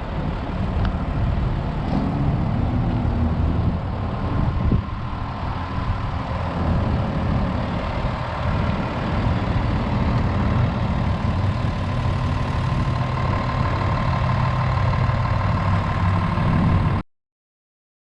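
Hino 268A medium-duty truck's diesel engine running steadily, with a thin steady whine above the low engine note. The sound cuts off abruptly about a second before the end.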